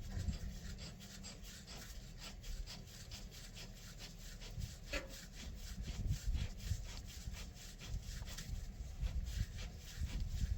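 Wrench work on a hydraulic hose fitting: a steady run of short, irregular clicks and rasping strokes as the fitting is put back on and tightened, over a low rumble.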